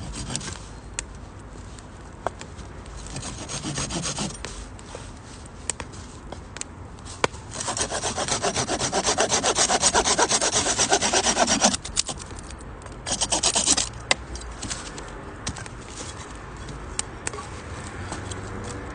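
Rapid rasping strokes on wood, loudest for about four seconds in the middle, with a shorter burst a little later. Sparse sharp clicks of a wood fire crackling sound between them.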